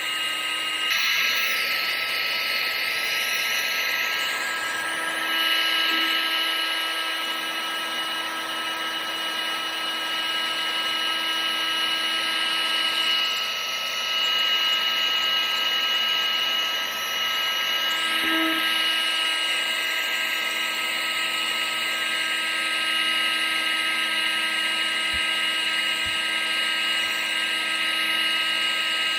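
Vacuum cleaner running steadily, a constant motor whine with several held pitches over a hiss of rushing air.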